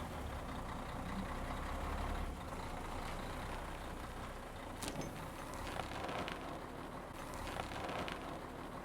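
Small motor of a toy truck running, with a low hum for the first couple of seconds and a steady noisy bed and a few faint clicks after.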